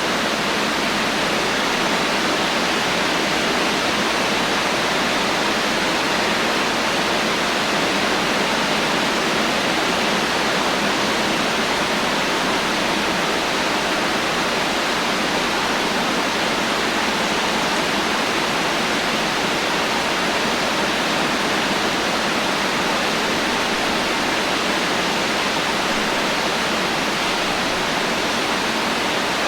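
Steady heavy rain, a dense even hiss with no thunder and no changes.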